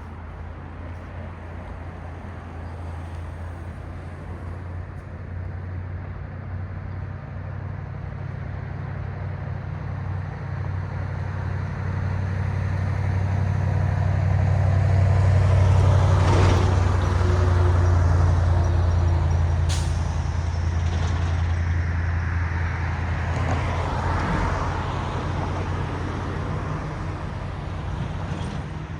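Road traffic passing: the low engine rumble of a heavy vehicle builds to its loudest about halfway through, while the tyre noise of passing vehicles swells and fades twice. There is a brief sharp hiss about two-thirds of the way in.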